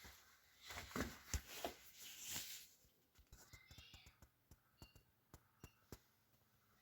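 Faint handling noises: a few sharp knocks and clicks and a brief rustle in the first couple of seconds, then scattered light ticks and a few short high chirps. No compressor hum is heard.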